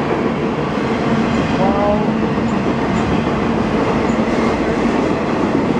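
Freight train flatcars rolling past close by: a steady, loud noise of steel wheels running on the rails.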